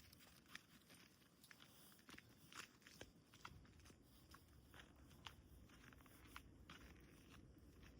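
Faint footsteps crunching in snow, a slow irregular series of soft crunches over a low rumble.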